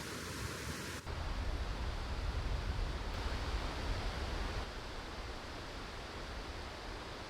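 Steady outdoor noise of rain and wind, with a heavy low rumble of wind buffeting the microphone. The sound shifts abruptly about a second in, as at an edit.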